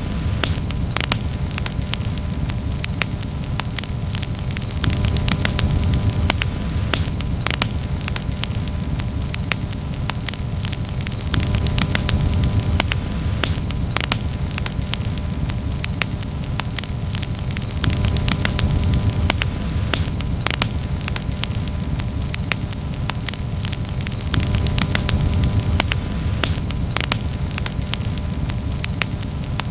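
Campfire crackling, with frequent sharp pops and snaps of burning wood over a steady low rumble of the flames.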